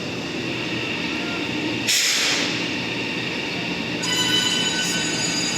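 High-speed electric train at a station platform: steady running noise with a short hiss about two seconds in, then several steady high-pitched whining tones from about four seconds in.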